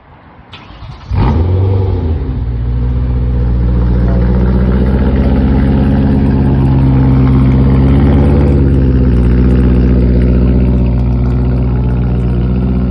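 BMW E92 M3's V8 starting through a newly installed Valvetronic full exhaust with mid pipe and test pipe: it catches about a second in with a loud flare, then settles into a steady, deep idle that eases down a little near the end.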